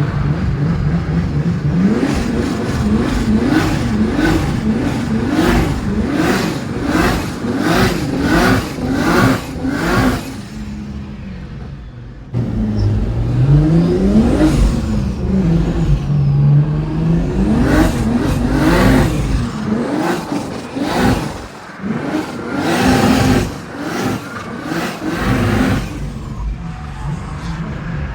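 Drift car engine revving hard, its pitch rising and falling in quick pulses under throttle, with a dip in level near the middle before it jumps back loud and keeps rising and falling.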